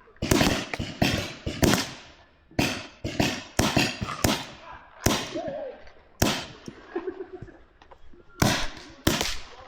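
Paintball markers firing, sharp pops coming singly and in quick strings of two or three, irregular and overlapping like several players shooting at once.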